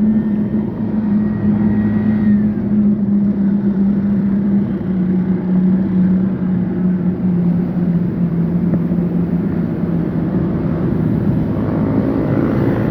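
A motor vehicle engine running steadily with wind and road noise, its pitch easing slowly downward as it slows.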